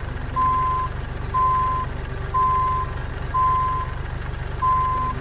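Reversing alarm beeping five times, one steady high beep of about half a second roughly every second, over a steady low engine-like hum.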